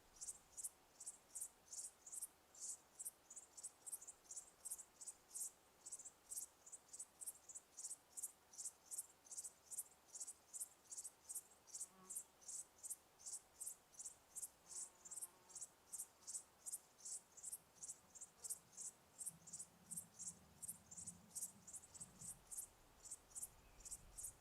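A cricket chirping steadily in short, high chirps at about three a second.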